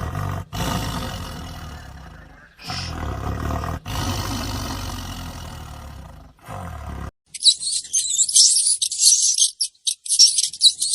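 A large animal roaring: several deep roars in a row, each trailing off. About seven seconds in they stop abruptly and a rapid, high-pitched chirping takes over.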